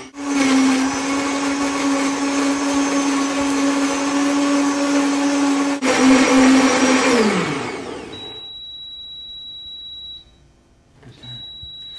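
Omniblend high-powered blender motor running at full speed, blending berries, apple, spinach and water. About seven seconds in it is switched off and the motor winds down with a falling pitch. A faint high steady tone remains afterwards.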